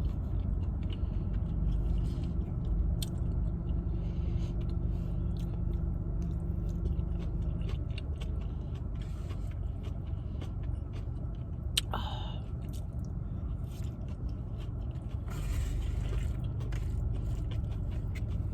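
Chewing and a utensil scraping and clicking in a takeout burrito bowl, over the steady hum of a car's air conditioning. A short pitched sound comes about two-thirds of the way through.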